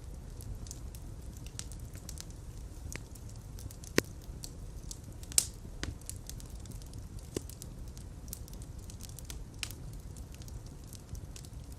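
Wood fire burning with a steady low rumble and irregular sharp crackles and pops, two louder pops about four and five and a half seconds in.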